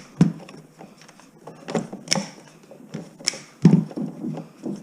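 Irregular sharp clicks and knocks, about half a dozen, the loudest near the end, from hands and hand tools working on scrap wire in a bare room.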